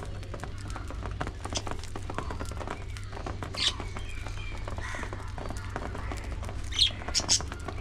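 A flock of budgerigars chattering, with many short chirps and a few louder sharp calls about halfway through and near the end, over a steady low hum.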